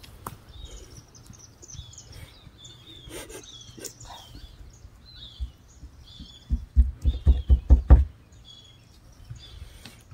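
Small birds chirping repeatedly, short high calls. About two-thirds of the way in comes a second and a half of loud, low thumping on the microphone.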